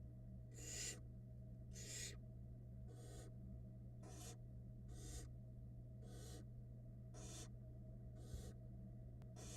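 Barn owl nestlings giving hissing begging calls: short rasping hisses repeated about once a second, nine in all, over a steady low electrical hum.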